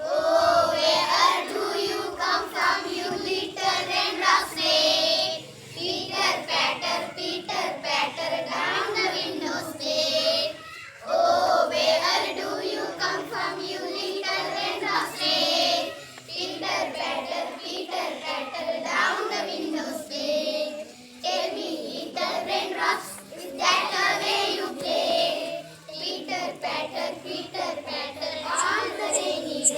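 A child singing a school poem about rain in a chanted tune, line by line with short pauses about every five seconds.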